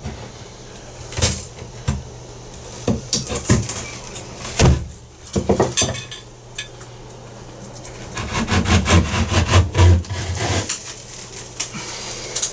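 Sheetrock being cut and broken out of a wall: scattered knocks and cracks, then a longer stretch of scraping and crumbling near the end.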